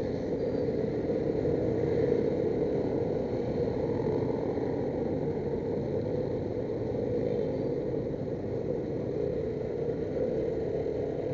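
Steady sound of road traffic, a vehicle engine running close by, even and unbroken throughout.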